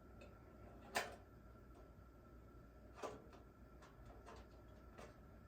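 Near silence with a few faint clicks or knocks: a sharp one about a second in, another about three seconds in and a softer one near the end.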